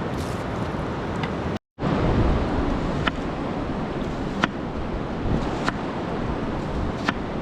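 Steady rush of river rapids, with a few single sharp cracks over it about every second and a half. The sound cuts out for a moment a little under two seconds in.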